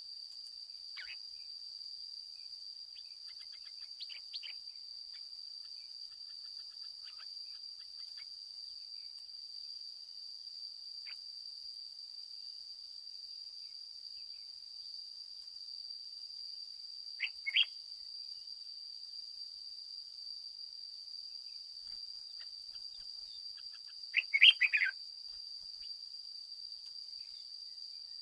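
Red-whiskered bulbul calling: scattered short chirps, a sharp double note about two-thirds of the way through and the loudest burst of notes near the end. Under it runs a steady high insect drone.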